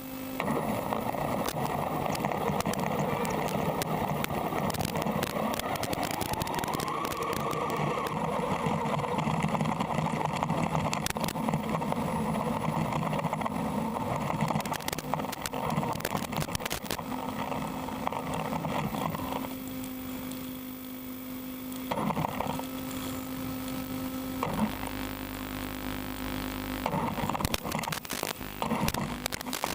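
A small brushless-motor RC car driving, heard with hiss and a steady electrical hum, as over an analog FPV video link; the motor note rises briefly about seven seconds in. Near the end of the first two thirds the driving noise thins out, leaving mostly the hum and a few clicks.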